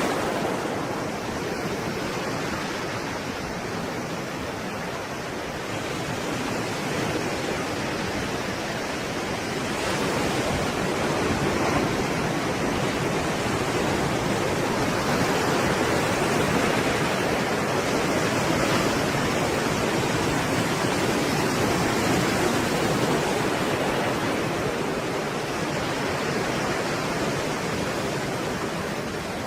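Stormy sea waves breaking and rushing as a steady roar of surf, swelling and easing slowly over several seconds.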